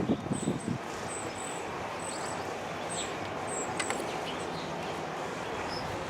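Steady outdoor background hiss with a small bird giving short, high chirps about every half second. There are a few low knocks at the start and faint clicks about four seconds in.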